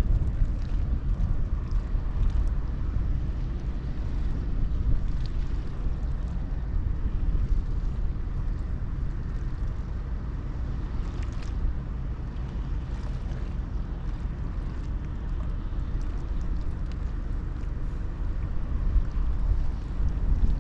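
Wind buffeting the microphone in uneven gusts, a deep rumble with a few faint ticks over it.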